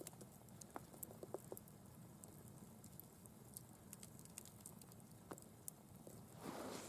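Near silence with faint, irregular crackles from a wood campfire. A soft rustle rises near the end.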